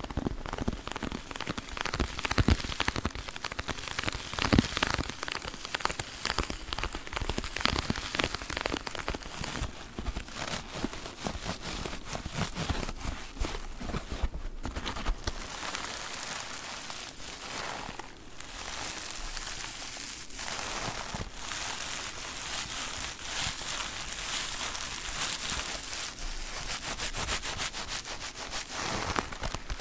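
Sponges from a sponge pack handled close to the microphone, giving a dense, continuous crackling and rustling.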